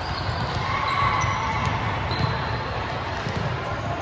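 Indoor volleyball game sounds in a large echoing gym: short sneaker squeaks on the court and a sharp knock of the ball a little after two seconds in, over a steady low rumble from the hall.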